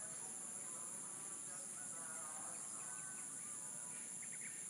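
Steady high-pitched insect drone with small birds chirping and twittering over it, and a quick run of chirps about four seconds in.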